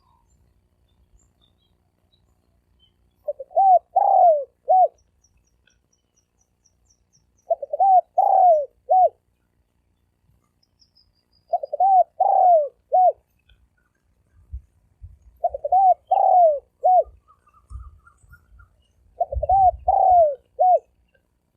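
Spotted dove cooing: five phrases of several coo notes each, one roughly every four seconds, with faint low rumbling between the later phrases.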